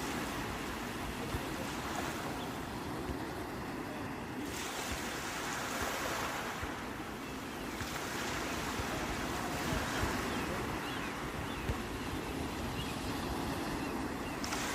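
Sea waves surging and washing on the shore in a continuous rush of surf, a wave building up about four seconds in and another after a brief lull.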